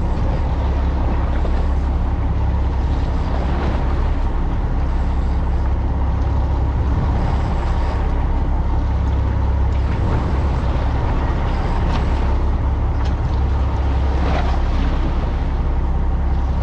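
A fishing boat's engine running at a steady pitch, with a deep hum and a constant rush of water and wind over it.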